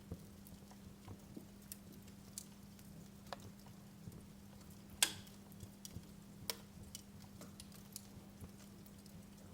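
Wood fire crackling in a fireplace: scattered sharp pops and snaps, the loudest about five seconds in, over a faint steady low hum.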